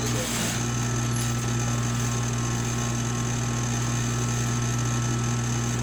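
Electric sewing machine running steadily at speed, its motor giving a constant hum.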